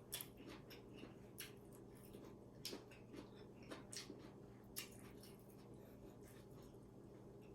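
Faint eating sounds: about a dozen small, irregular clicks and smacks over a steady low hum.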